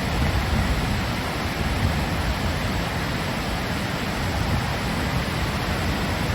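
Steady rushing of fast-moving floodwater from a street running like a river and a creek over its banks.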